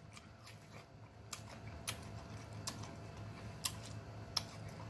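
Close-miked chewing of a mouthful of cantaloupe: soft, sparse wet mouth clicks and smacks, roughly one a second.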